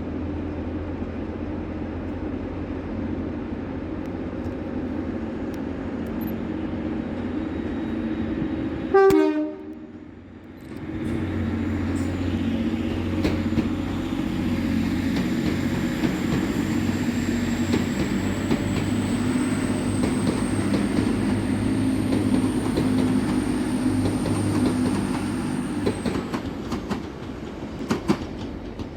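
Train running at a station with a steady low engine drone, cut by a short, loud horn blast about nine seconds in. After that the train noise carries on, with a thin high whine for several seconds in the second half and a few sharp clicks near the end.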